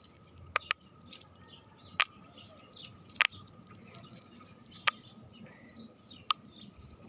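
Silicone pop-it fidget toy bubbles being pressed, giving about six sharp, irregularly spaced pops, over birds chirping.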